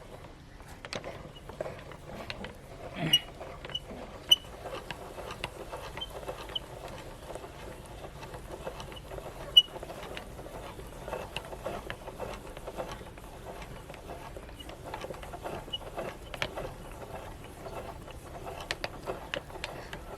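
Meat grinder working caramel cake through, a steady run of small crackles and clicks with three sharp clicks, about three, four and nine and a half seconds in.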